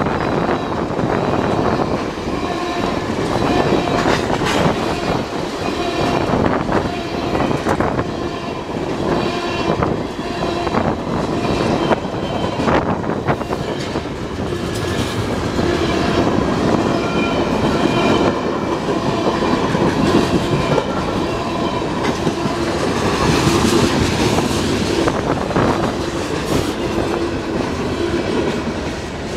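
Loaded freight cars (tank cars, then covered coil-steel cars and a boxcar) rolling past close by in a continuous rumble. The steel wheels click over rail joints, with faint metallic squealing tones coming and going.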